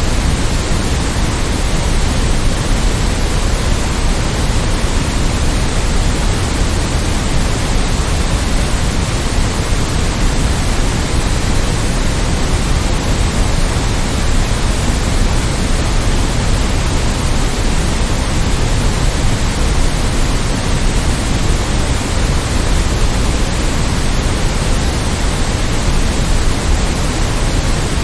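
Steady white noise: an even, unchanging hiss spread across the whole range, with a little more weight in the low end.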